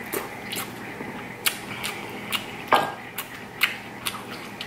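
Close-miked chewing of a bite of corn on the cob: scattered wet mouth clicks and smacks, with one louder smack a little under three seconds in.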